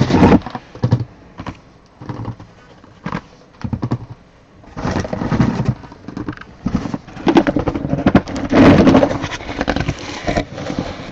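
Trading-card boxes and packs handled close to the microphone: irregular knocks and clicks with rustling of packaging, busiest about halfway through and again near the end.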